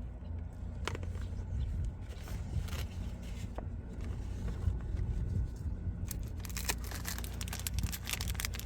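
Car-cleaning supplies and other small items being handled inside a car: scattered clicks and scrapes, turning into busy rustling and crackling from about six seconds in, over a steady low rumble.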